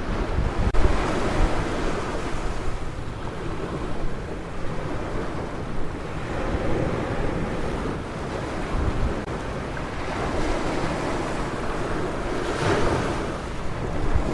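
Ocean surf washing onto a beach, a steady rushing noise that swells and eases, with one wave breaking louder near the end. Wind buffets the microphone underneath.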